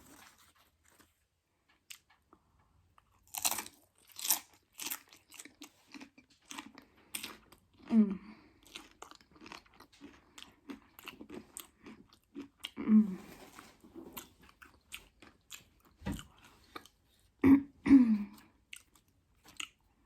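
Close-miked crunching and chewing of Doritos loaded nachos: a few sharp bites into the chips a few seconds in, then steady chewing with more crunches and several louder short mouth sounds.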